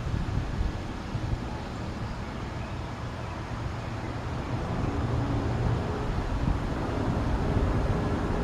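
Wind rumbling and buffeting on the camera microphone outdoors, with a faint steady hum joining about halfway through.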